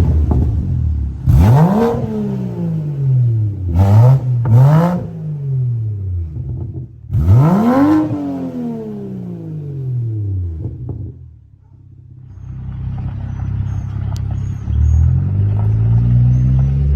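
BMW 340i's B58 turbocharged 3.0-litre straight-six with a single-exit exhaust, revved in four quick blips, each note shooting up and falling away slowly, then settling to a steady idle. Near the end the engine note climbs steadily as the car accelerates.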